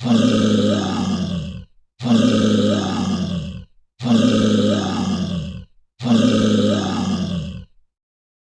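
An animal call, the same call played four times, about two seconds apart, each lasting just under two seconds.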